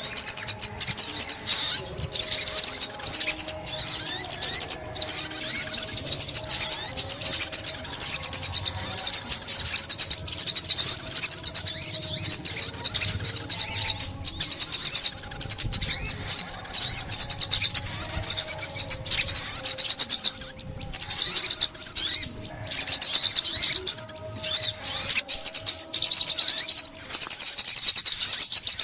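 A sunbird (ốc mít) singing: a fast, high-pitched, unbroken twittering song, with a few short pauses about two-thirds of the way through.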